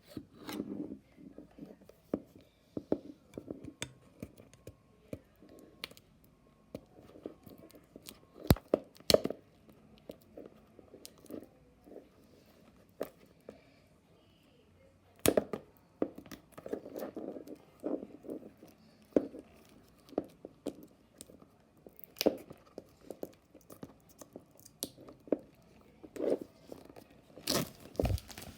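Packaging of Google Pixel USB-C earbuds being handled and opened: scattered clicks and taps with short tearing and crinkling sounds, in irregular bursts.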